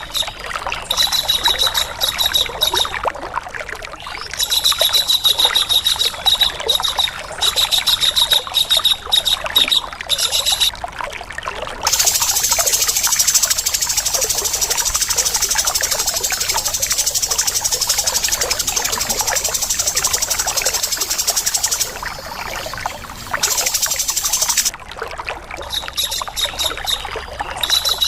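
Harsh bird calls: runs of rapid, repeated sharp notes, broken by a long dense buzzing rattle in the middle, over a steady trickle of running water.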